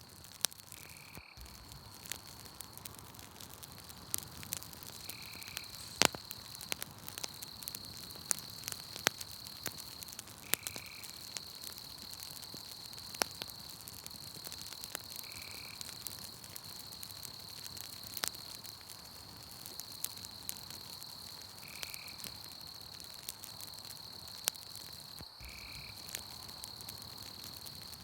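Campfire crackling with sharp, irregular pops, over a steady high insect trill. A short animal call repeats about every five seconds.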